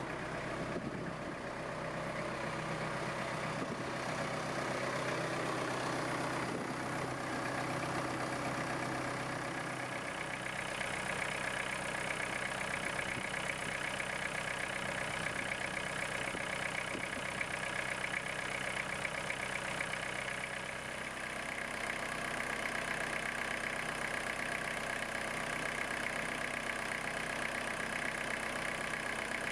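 Iseki GEAS41 tractor's diesel engine running steadily at idle, its sound growing brighter about ten seconds in.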